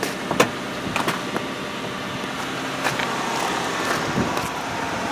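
Car engine idling shortly after a cold start, heard from inside the cabin as a steady hum and hiss, with a few light clicks and taps.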